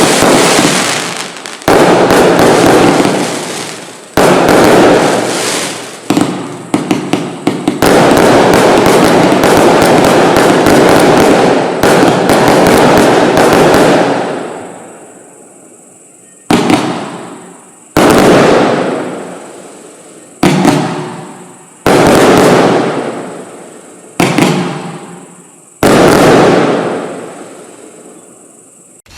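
Consumer fireworks cake, a 178-shot compound barrage, firing in rapid succession: dense overlapping bangs and crackle for the first half. From about sixteen seconds in it slows to single loud shots every second or two, each dying away.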